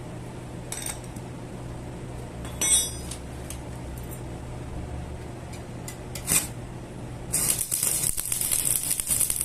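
Metal clinking three times over a steady low hum, then a loud rough hiss that starts about seven seconds in and keeps going.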